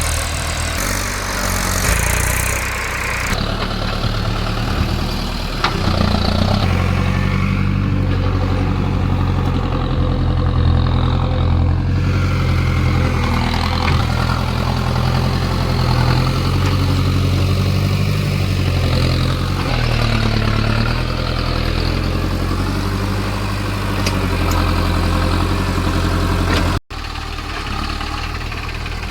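Tractor's diesel engine running steadily with low, even chugging, its pitch shifting a few times. The sound drops out for an instant near the end.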